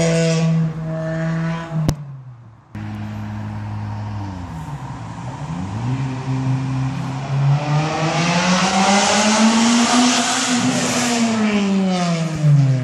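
Honda Civic Type R four-cylinder engine and exhaust: a steady high engine note cuts off about two seconds in, then comes back lower, dips and climbs, and rises steadily in pitch to a peak near the end before falling away as the car drives past.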